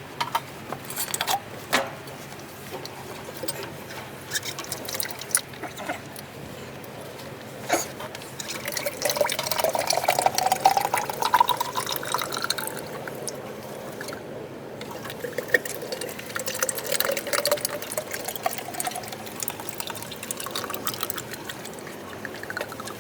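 Engine oil pouring into a container, its pitch rising as the container fills, twice, with a few clinks and drips around it.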